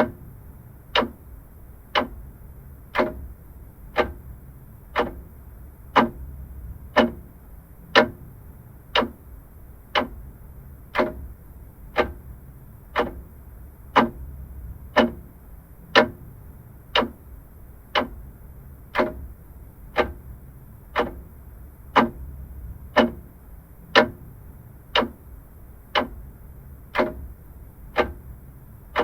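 Vintage mechanical clock ticking steadily, one sharp tick each second, over a faint low hum.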